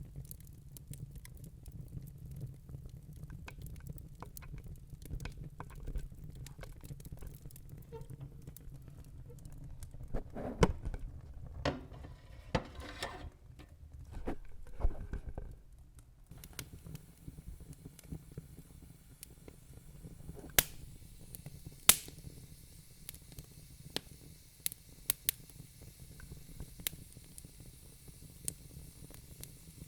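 Wood logs burning in a fireplace, crackling and popping over a low rumble of flames. A denser run of louder crackles with hissing comes around the middle, and a few sharp single pops follow in the second half.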